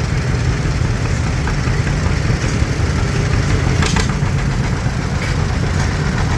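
Antique tractor engines running steadily at low speed, a deep low-pitched rumble, with a couple of brief clicks near the middle.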